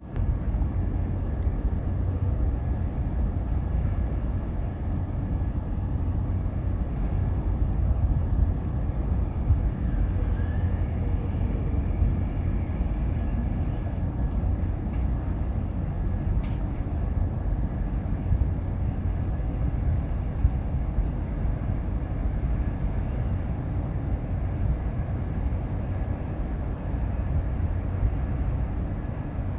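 Steady low rumble of outdoor harbour-side ambience, even and unbroken, with a faint hiss and a few faint steady tones above it.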